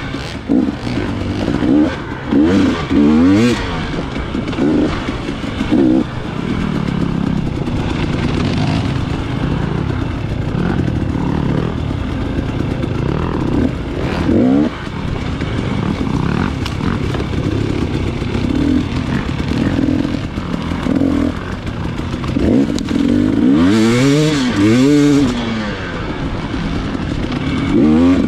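Dirt bike engine being ridden hard, its revs rising and falling continually as the throttle is worked, with a quick run of up-and-down revs near the end.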